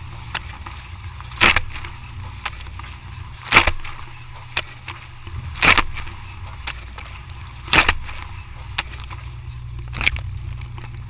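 Dishwasher running: a steady low hum with a short splashing swish about every two seconds and small clicks in between.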